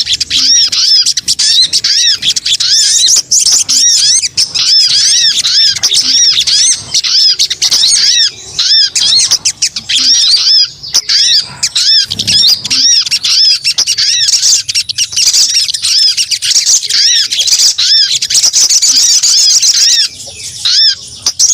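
Sogon bird lure call: a fast, continuous series of short arched chirps, about three a second, breaking off briefly near the end.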